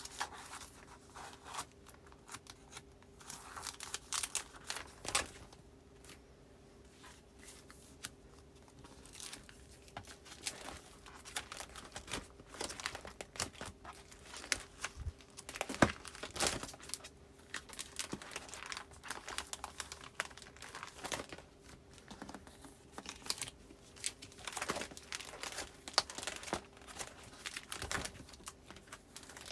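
Postcards and paper goods being filed into a binder's pockets: irregular rustling and crinkling, with scattered sharp clicks and taps.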